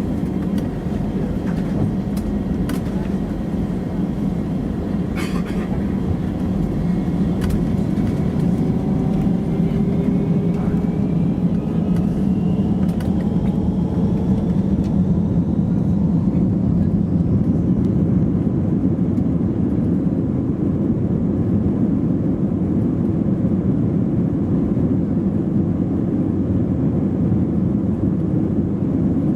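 Airbus A320's IAE V2500 turbofan engines heard from inside the passenger cabin, spooling up for take-off: a whine rises in pitch over several seconds, then gives way to a steady, loud rush. A few light knocks and rattles in the first several seconds.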